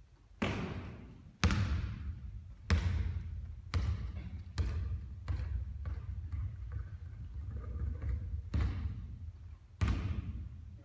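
Basketball bouncing hard on a court floor, about eight separate hits at uneven intervals of roughly a second, each trailing off in a ringing echo.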